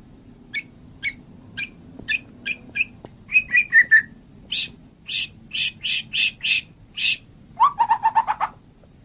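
White-rumped shama (murai batu) singing: short sharp notes about twice a second, a quick warbling trill a little past three seconds in, then louder repeated notes, and a fast, lower-pitched stuttering run near the end.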